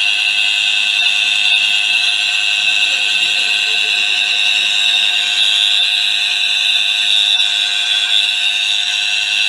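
A loud, continuous high-pitched electronic alarm tone, held steady with a slight flutter.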